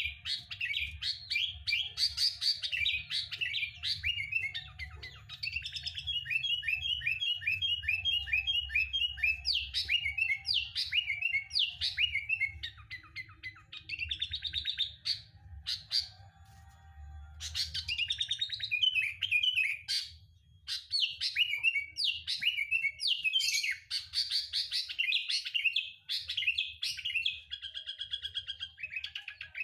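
Sooty-headed bulbul (kutilang) singing: fast runs of chirps and short whistled phrases, nearly continuous, with a brief pause a little past halfway.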